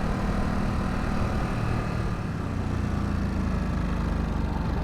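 Ducati SuperSport 950 S's V-twin engine running steadily while riding, with a constant rush of wind noise.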